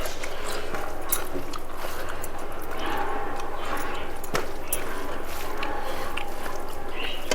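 Close-up eating sounds: chewing and mouth smacks of rice and chicken curry, with many short sharp clicks scattered throughout.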